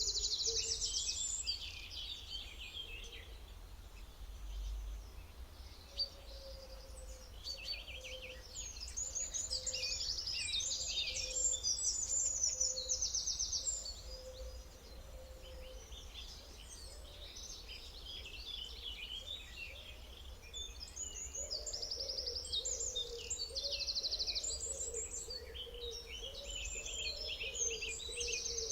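Songbirds singing in bouts of quick, high trills and chirps, three times over, with a steady low rumble of background noise beneath.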